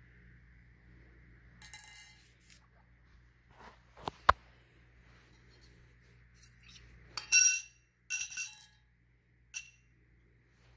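Small metal pieces clinking and ringing against a hard surface: a sharp knock about four seconds in, then a cluster of ringing clinks about seven to nine seconds in.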